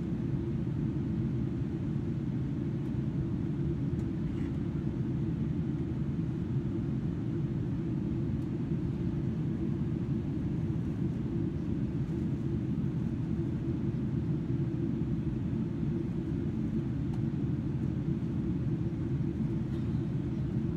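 Steady low rumble of cabin noise inside a Boeing 777-300ER airliner in flight: airflow and engine noise heard from a window seat, with no change in pitch or level.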